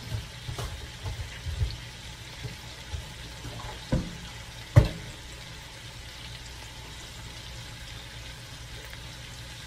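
Shredded cabbage frying in bacon grease in a pot, a steady sizzle as it cooks down. Two sharp knocks come about four and five seconds in, the second the loudest.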